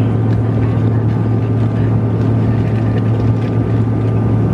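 Steady drone of an airliner cabin in flight: a constant low engine and air hum with faint steady whining tones above it.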